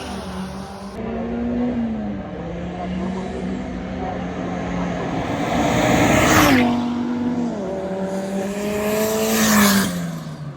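Drag racing cars running at full throttle down the strip. The engine note drops sharply at gear changes about six and a half seconds in and again near the end, with one car struggling with its gear changes.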